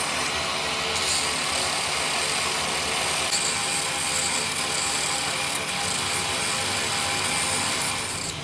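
Steady, harsh metalworking noise from work on a Petter engine crankshaft, with a faint steady tone under it, cutting off suddenly near the end.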